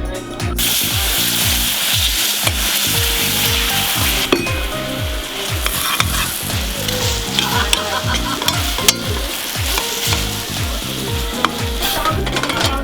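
Sugar caramelizing in a hot pan, sizzling steadily as it is stirred, with a few light clicks of the utensil against the pan. The sizzle starts about half a second in and fades near the end. Background music with a steady beat plays underneath.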